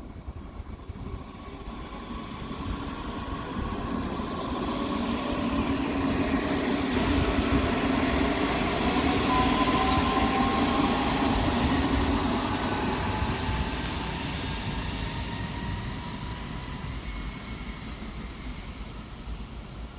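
A train passing through the station, growing louder over several seconds, loudest in the middle, then fading away. A low rumble runs under a whine that falls in pitch as the train goes by.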